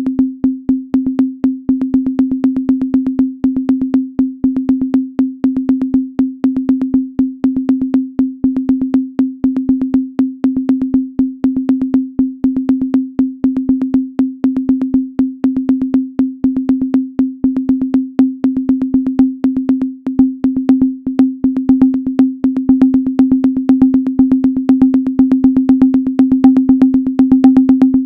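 Minimal electronic music: a single low sine tone pulsed in a fast, slightly uneven stuttering rhythm, each pulse opening with a sharp click. A faint higher tone comes in and grows stronger toward the end.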